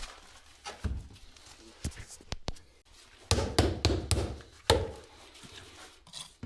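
Dull knocks and taps from flagstone laying work, tools striking stone and mortar: a few spaced strokes, then a quicker run of them about three to four seconds in.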